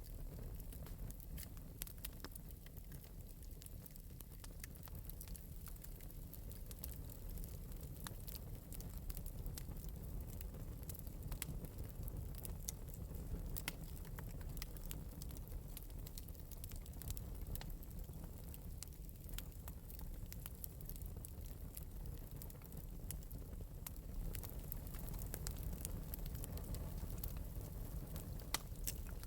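Wood fire crackling in an open metal fireplace: frequent small, irregular pops and snaps over a steady low rumble of the flames.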